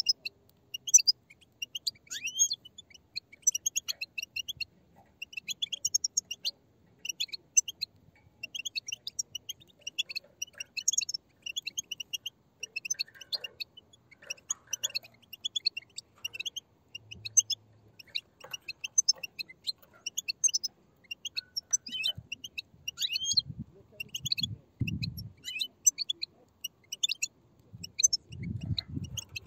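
A group of European goldfinch chicks giving begging calls: a dense, unbroken chatter of rapid, high, short chirps from many young birds at once. This is the chick chatter used to stir caged goldfinches into singing.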